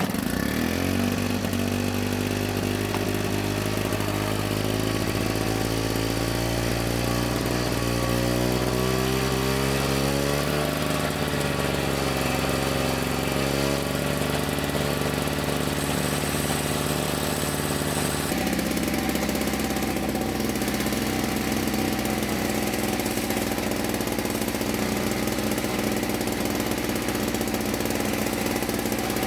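Victa Tilt-A-Cut S90 power edger's two-stroke engine running steadily just after starting, its speed climbing gradually over the first ten seconds. The tone shifts about two-thirds of the way in. The engine runs on because the stop switch fails to shut it off.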